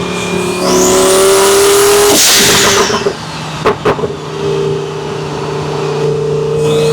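Twin-turbocharged Lamborghini Huracan V10 pulling hard under full throttle, revs climbing steadily, with a loud rushing burst about two seconds in. Two sharp cracks come near four seconds, and then the engine climbs through the revs again until it cuts off at the end.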